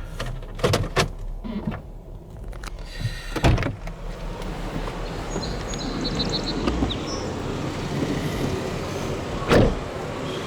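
Car being parked and opened up: a few knocks and clicks from the cabin, then steady outdoor traffic noise comes in, and a loud thump about nine and a half seconds in.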